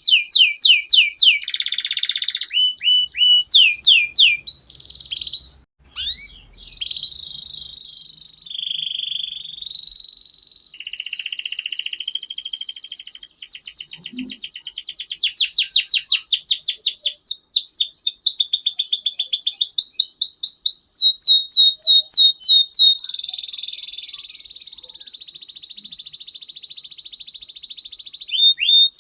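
Canary singing a long, varied song: fast trills of rapidly repeated down-slurred notes alternating with rolls and a long steady whistle near the end.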